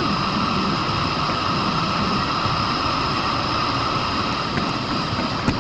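Miele Blizzard CX1 bagless cylinder vacuum cleaner running steadily, a constant motor whine over the hiss of suction, with a brief click near the end.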